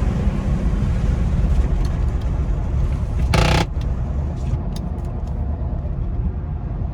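Steady wind and road noise inside a 2008 Mazda CX-9 at about 50 mph with the windows open. About three and a half seconds in there is a brief loud rasp as a power window closes, and after it the hiss of the wind drops.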